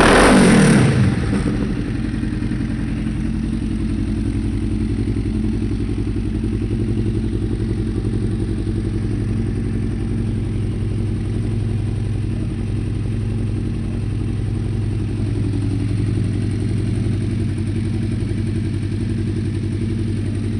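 Kawasaki KLE motorcycle engine through an aftermarket race exhaust: a quick throttle blip at the start, revs falling back over about a second, then idling steadily.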